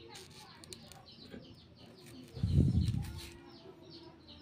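Small birds chirping in quick repeated calls, several a second. A loud low thump about two and a half seconds in stands out above them.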